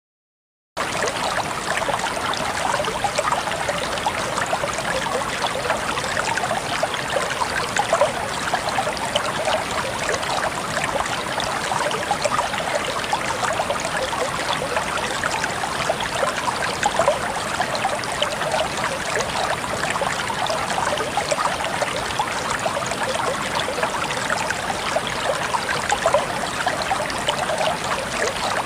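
Shallow clear stream babbling and trickling over rocks, a steady gurgling flow. It starts abruptly just under a second in.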